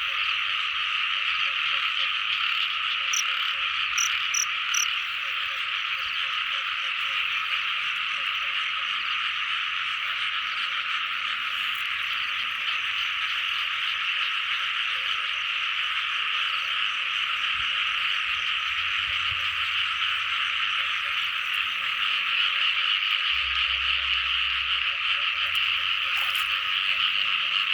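Dense chorus of many small frogs calling together, a steady unbroken wall of calls.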